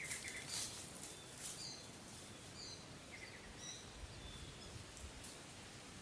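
Faint outdoor ambience: several short high bird chirps, with a few brief rustles in the first second or so and another a little past five seconds.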